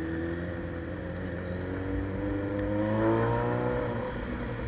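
Suzuki Bandit 600's carbureted inline-four running through a straight-through sports exhaust, its pitch rising as the throttle opens about two and a half seconds in, then easing off near the end.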